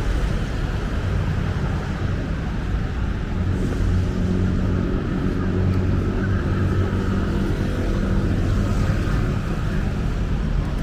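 Steady city street traffic, the low, even engine hum of vehicles running close by.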